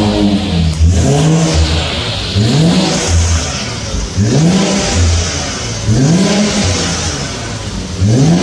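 Infiniti Q50 engine revved in a string of short throttle blips, about one every second or so, each rising in pitch and dropping back to a low rumbling idle. The sound comes through a Rev9 catback midsection and a PLM Helmholtz axle-back exhaust with no resonators, which gives it a little more rumble.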